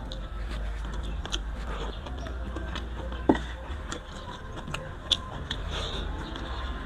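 Close-mouthed eating sounds: chewing and lip smacks on a mouthful of grilled carp eaten by hand, with many small wet clicks and a sharper click about three seconds in. A low steady rumble runs underneath.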